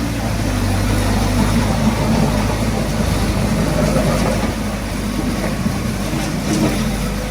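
Heavy diesel engine running steadily, a low, even drone.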